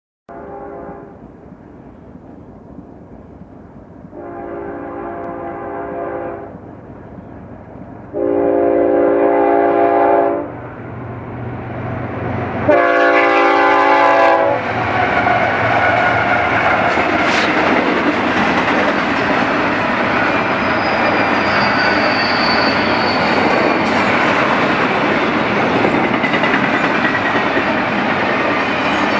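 BNSF intermodal freight train's locomotive air horn sounding four chord blasts as it approaches, each louder than the last, the final one ending about fourteen seconds in. The diesel locomotives then pass, and the double-stack container well cars roll by with a steady wheel-on-rail clatter.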